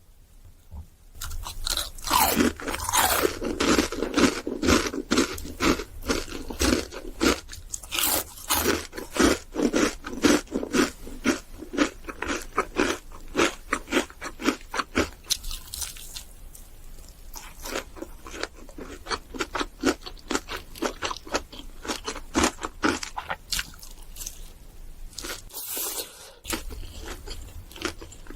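Close eating sounds: repeated loud crunching bites and chewing of crispy KFC fried food, several crunches a second. They thin out somewhat past the middle, with a brief pause near the end.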